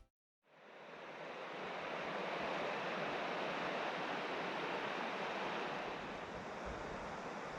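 River water rushing steadily, fading in after a brief moment of silence.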